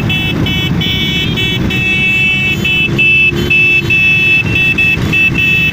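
A vehicle horn or alarm sounding in rapid repeated beeps, about three to four a second, over the steady low rumble of motorcycle and vehicle engines in a motorcycle parade.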